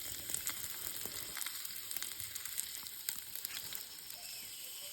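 Food frying in hot oil, sizzling with many sharp crackles and pops that thin out about four seconds in, leaving a steadier sizzle.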